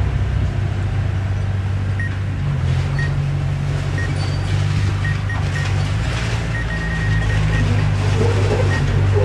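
Diesel engine of heavy earthmoving equipment running steadily under load, with a slight change in engine pitch about two and a half seconds in and brief high squeaks coming and going.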